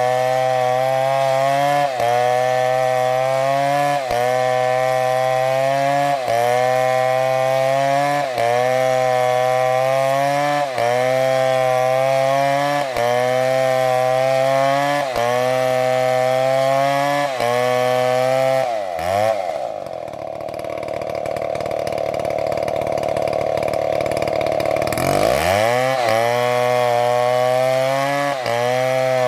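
Chainsaw engine running at high revs, its pitch dipping briefly about every two seconds. About two-thirds of the way through the engine note sinks away and a rough, noisy cutting sound holds for about five seconds before the revs climb back.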